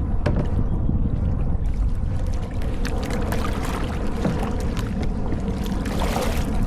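Kayak paddle strokes splashing and water dripping off the blades, with scattered small splashes over a steady low rumble.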